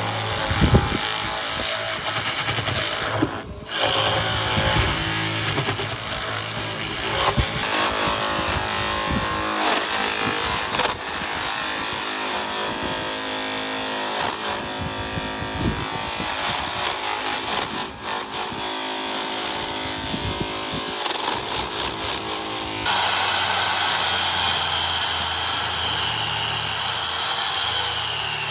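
Woodworking power tools running on wood in several short stretches, with knocks and handling noise. Near the end a steadier tool sound with a high wavering whine takes over.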